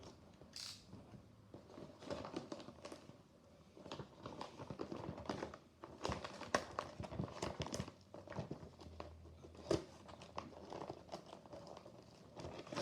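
Packaging being handled: irregular crinkling and crackling, with a little tearing and small knocks, as packages of diecast cars are unpacked.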